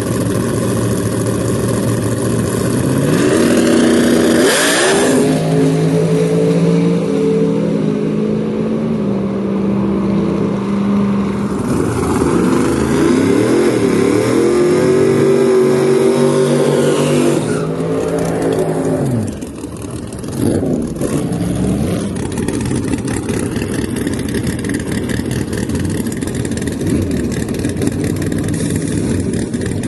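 Drag car engines revving hard: a sharp rise in pitch about four seconds in, then running at high revs with stepped pitch changes and a second climb, falling away around nineteen seconds into a steady run.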